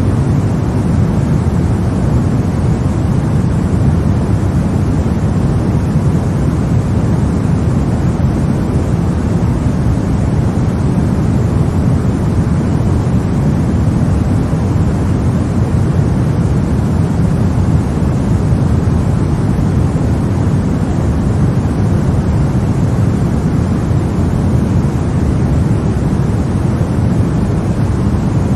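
Steady, unchanging sleep-aid noise, deep and rumbly, with most of its weight in the low end rather than an even hiss.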